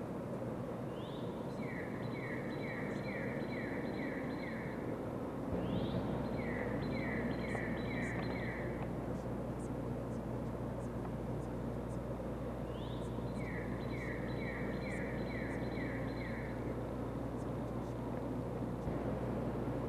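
A songbird sings the same short phrase three times, a rising note and then a quick run of about seven falling notes, over steady outdoor background noise. About five seconds in a low steady hum joins.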